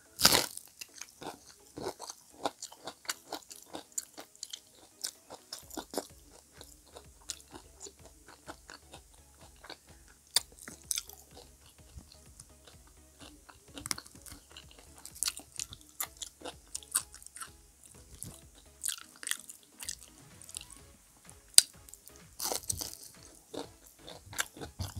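Close-up chewing and crunching of crispy deep-fried squash fritters (kalabasang okoy), a dense run of sharp crackling crunches, loudest at the first bite.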